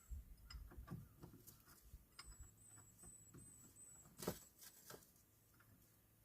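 Near silence with faint scattered clicks and rustles, one sharper click about four seconds in, and a faint high whine that comes and goes.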